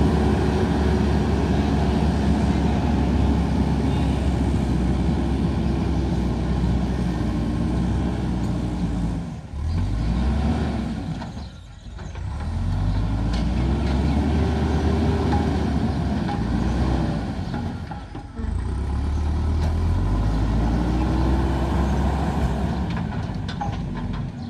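JCB backhoe loader's diesel engine working under load, its pitch rising and falling in a few long swells as the machine digs, with brief drops in level between them.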